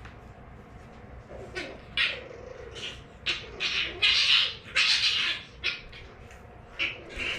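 French Bulldog puppy making an irregular run of about ten short, breathy, hissing noises, starting about a second and a half in and loudest around four to five seconds in, with a faint whine under the first few. A low steady hum runs underneath.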